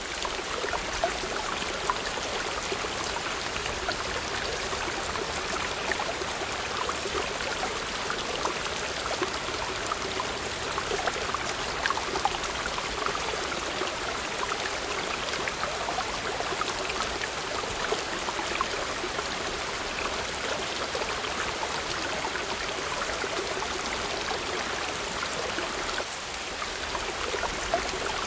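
Waterfall splashing steadily, a constant rush of falling water with little deep rumble and a few brief sharper splashes now and then.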